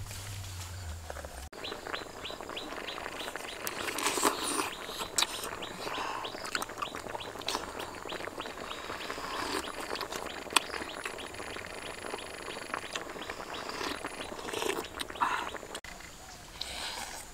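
A bird chirping rapidly in the background, a quick run of short high falling chirps about four a second, with close-up eating sounds, slurps and chewing of soup and duck egg, rising above it every few seconds.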